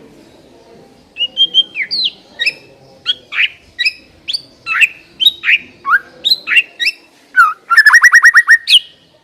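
White-rumped shama singing a loud string of varied whistled notes, many sliding down in pitch, starting about a second in. It ends with a fast run of about eight repeated notes and a final rising note.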